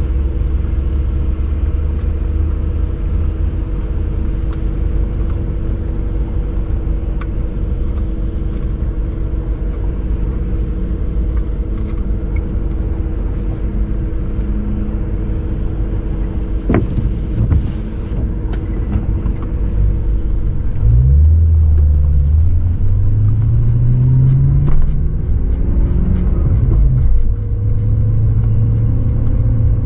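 BMW E39 540i's 4.4-litre V8 exhaust, running steadily at low revs for most of the stretch. About two-thirds in it gets louder as the car accelerates, the pitch climbing several times with drops between as the manual gearbox is shifted up.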